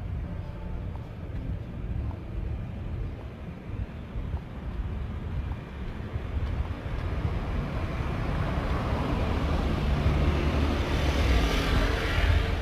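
A vehicle passing close by, its hiss swelling toward the end over a steady low rumble.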